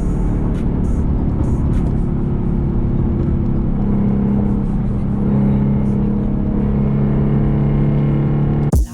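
Car engine running with road and wind noise, the engine note steadying at a higher pitch about four seconds in.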